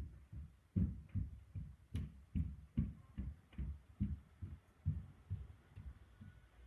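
Wood fire crackling: a run of soft low pops, about three a second, with one sharper snap about two seconds in.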